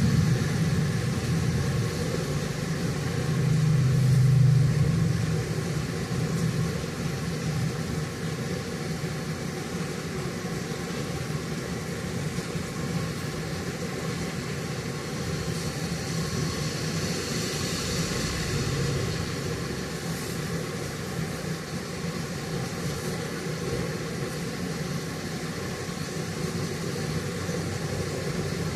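Steady rain ambience over a continuous low rumble. The level swells about four seconds in, and a hiss rises and fades around eighteen seconds in.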